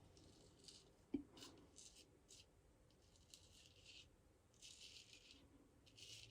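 Straight razor scraping through stubble in a series of short strokes, with one sharp knock about a second in.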